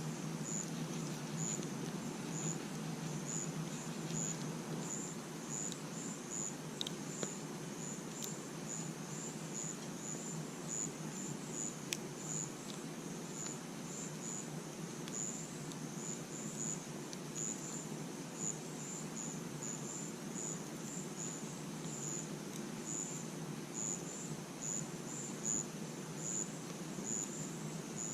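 Crickets chirping steadily, about two high chirps a second, over a low steady rush, with a few faint sharp pops from a campfire now and then.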